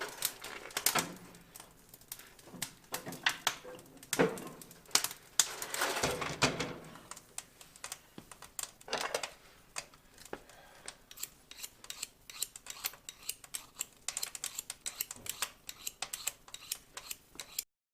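Wood-burning stove being loaded and lit: a few knocks and rustles of wood and paper, then a dense run of quick, sharp crackles as the kindling catches.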